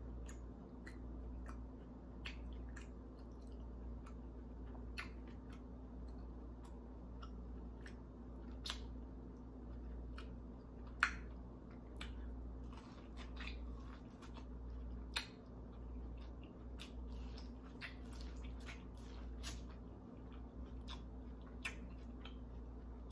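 Close-up eating sounds of biting and chewing corn on the cob: scattered, irregular wet clicks and smacks from the mouth and kernels, over a low steady hum.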